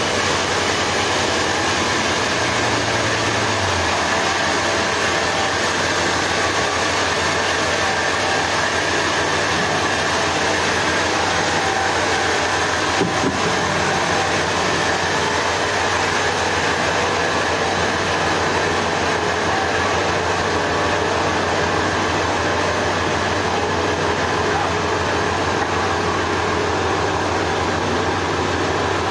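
Sawmill machinery running steadily: a dense, even noise over a low engine hum, with one brief click about halfway through.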